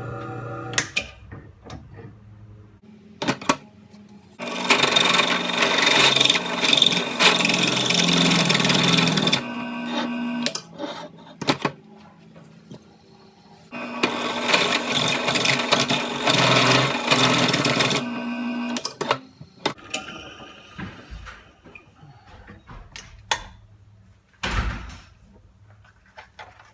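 Electric drill boring out a metal spark plug non-fouler adapter, running in two bursts of about five and four seconds, with sharp clinks and knocks of metal parts between them.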